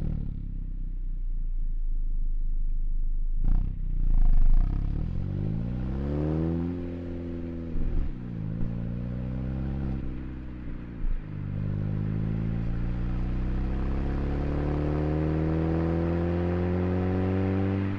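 Genesis Coupe turbo four-cylinder with an aftermarket cat-back exhaust accelerating through the gears. The engine note climbs, falls sharply at upshifts about eight and eleven seconds in, then rises slowly and steadily. There is a brief sharp noise about three and a half seconds in.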